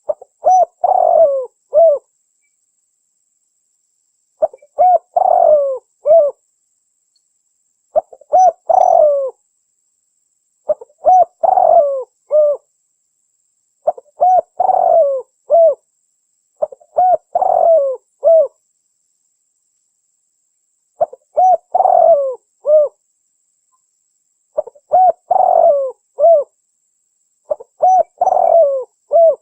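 Spotted dove cooing: nine repeated phrases of several short, low coo notes each, roughly one phrase every three seconds.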